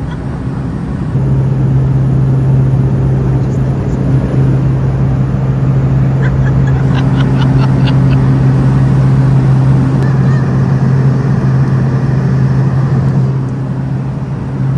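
Steady cabin drone of a small private jet in flight: engine and airflow noise with a strong low hum, which steps up in loudness about a second in.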